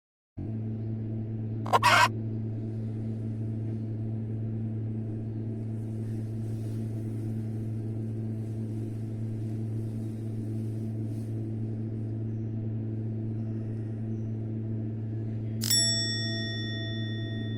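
A steady low hum, a short sharp clatter about two seconds in, and near the end a single bright metallic ring that dies away slowly.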